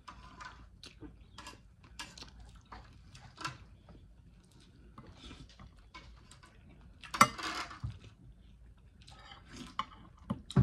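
Close-up eating sounds: wet chewing and small mouth clicks from someone eating toasted French bread and chicken curry, with light taps of a spoon on the plate. There is a louder sharp clatter about seven seconds in.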